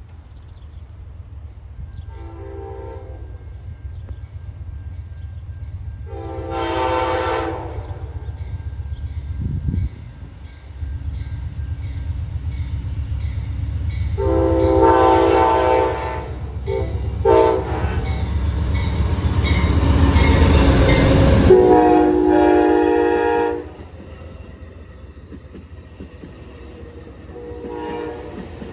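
Amtrak P42DC locomotive sounding its five-chime K5LA air horn in the grade-crossing pattern, long, long, short, long, as it approaches, with the rumble of the diesel and train building and peaking as it passes, then dropping off suddenly after the last long blast. A fainter horn call comes about two seconds in and again near the end.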